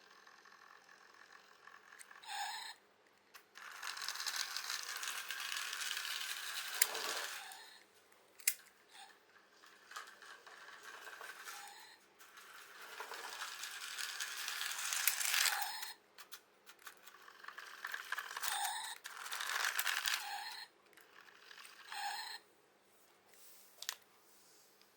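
Small toy-grade RC car's electric motor and plastic gear train whirring in repeated runs of a few seconds, with short blips of the motor in between. The rear drive is running on a cracked 10-tooth spur gear that has been glued back together.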